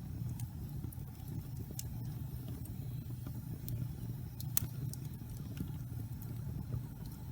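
Wood logs burning in a fireplace: a steady low rumble of flame with scattered sharp crackles and pops, the loudest pop about four and a half seconds in.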